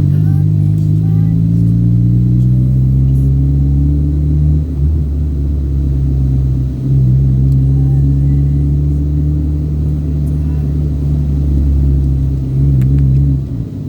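Car engine and road rumble while driving. The engine note climbs in pitch over the first few seconds and then holds steady, with brief dips that sound like gear changes.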